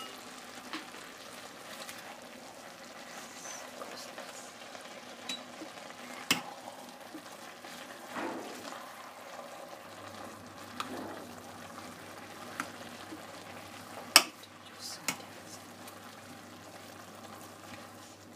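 Chopped watercress cooking in oil in a stainless steel pot with a low, steady sizzle, and a metal spoon stirring it and knocking against the pot a few times, the sharpest knock about three quarters of the way through.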